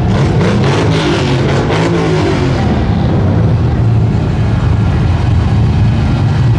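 Truck engine revving loudly, its pitch sweeping up and down with rapid crackling in the first two to three seconds, then holding a steady, heavy drone.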